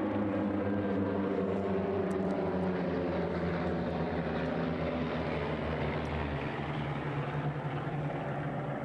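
Piston engines and propellers of small planes flying in formation: a steady drone that slowly fades near the end.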